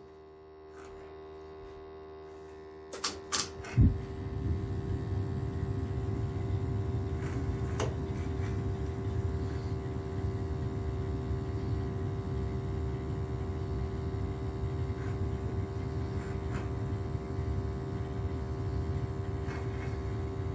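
Gas burner of a Crown hot water boiler lighting: a few clicks and a low thump about four seconds in, then the burner firing with a steady rumble over a constant hum. The combination gas valve opens all at once instead of stepping open, which the plumber takes for a wrong replacement valve.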